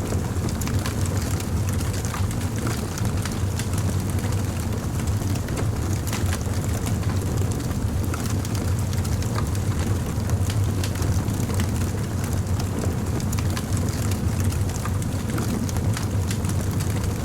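Fire crackling: a steady low rumble under frequent small, sharp pops and snaps.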